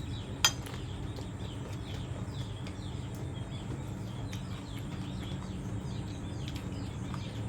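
Outdoor ambience of small birds chirping again and again in short, quick falling notes over a steady low hum. A single sharp click comes about half a second in.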